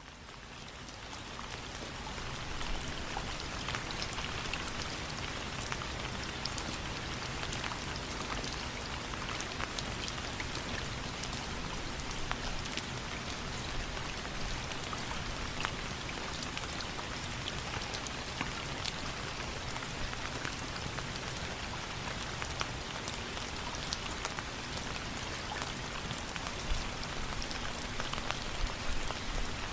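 Steady rain falling on a surface, with many sharp drop ticks scattered through it. It fades in from silence over the first couple of seconds, then holds steady.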